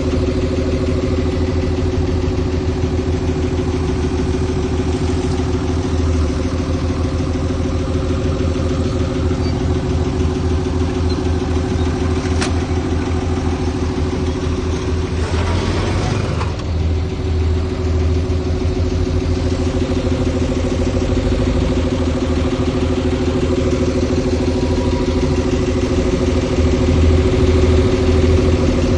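Heavy diesel engine of earthmoving machinery running steadily at a constant note, with a brief rushing noise about halfway through and a slight rise in level near the end.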